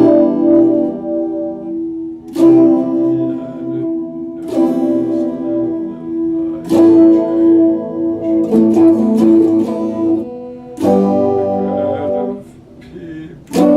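Epiphone Les Paul Special II guitar strumming chords, a new chord struck about every two seconds and left to ring, with some single-note picking around the middle.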